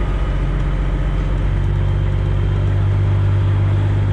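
Diesel engine of a Freightliner Classic XL semi truck idling steadily, heard from inside the cab, with a low even drone that grows a little louder about halfway through.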